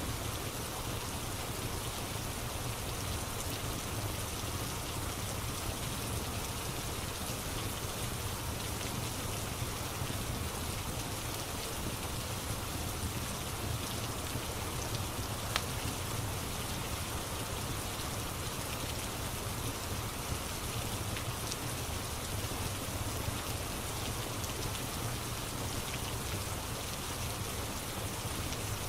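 Steady rain falling on a surface, an even hiss, with a few isolated sharp clicks, the strongest about halfway through.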